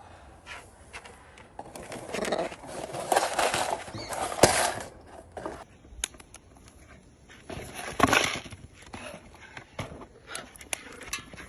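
Cardboard crackling and tearing in bursts, with scattered sharp clicks: a parrot ripping into a cardboard-box puzzle feeder. There is a longer spell of tearing a couple of seconds in and a shorter one about two-thirds of the way through.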